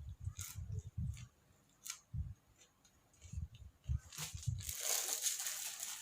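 A person chewing crunchy food close to the microphone: irregular soft thuds of the jaw with sharp crunching clicks. From about four seconds in, a steady rustling noise.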